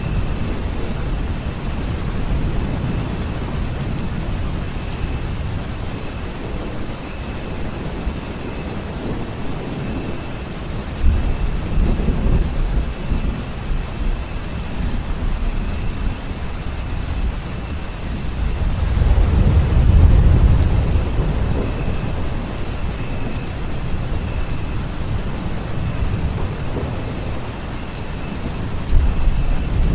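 Steady rain falling, with low rumbles of thunder swelling and fading under it: one about a third of the way in, the loudest about two-thirds through, and another near the end.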